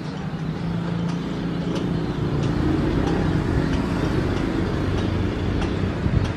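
Jet airliner engines rumbling, growing louder over the first few seconds and then holding steady.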